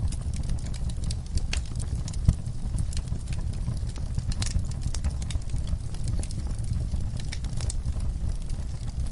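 Wood fire burning in a fireplace: irregular crackles and pops over a steady low rumble, with one louder pop about two seconds in.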